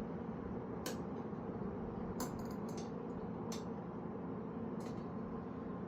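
A handful of sharp metallic clicks and clinks from lowrider bike parts being handled and fitted, spaced a second or so apart, over a steady background hum.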